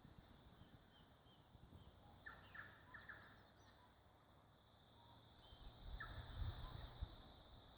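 Faint birdsong: scattered short chirps over a steady high background chorus, with a low rumble of wind or handling on the microphone partway through.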